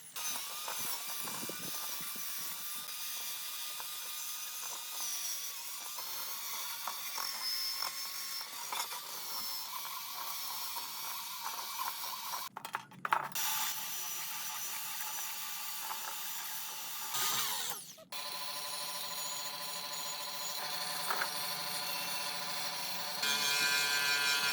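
Power tools running in a workshop, in several short edited clips with abrupt cuts about halfway through and again about three quarters of the way in. After the second cut a steadier, humming motor sound takes over.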